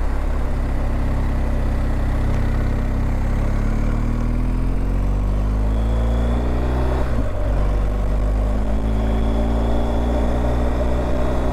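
BMW R 1250 GS Adventure boxer-twin motorcycle engine pulling uphill under load, its revs rising steadily. About seven seconds in there is a gear change, and the revs then climb again.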